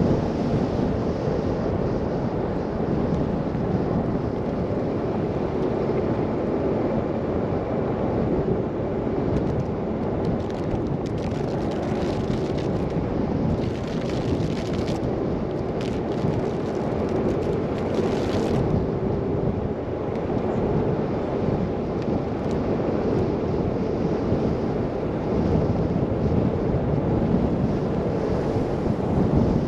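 Steady low rumble of wind and road noise from a car driving through a snow blizzard, with a patch of faint crackles through the middle.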